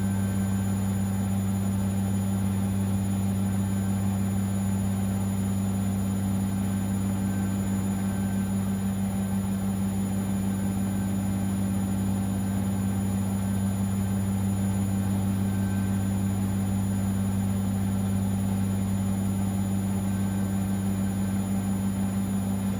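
Siemens Extraklasse XLS 140 A washing machine running at a steady speed, with a deep, even hum and a faint high whine.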